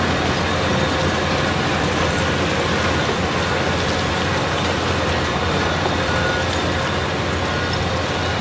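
Heavy construction machine's diesel engine running steadily under a continuous rumble, with no pauses or knocks.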